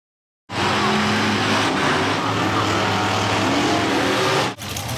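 Monster truck engine running loud and revving, starting abruptly about half a second in and cutting off just before the end.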